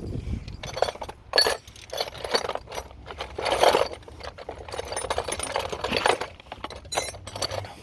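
Irregular metallic rattling and clinking from parts in the engine bay of a 2004 Toyota Sienna, over a faint steady low hum, while the source of an engine rattle is being tracked down.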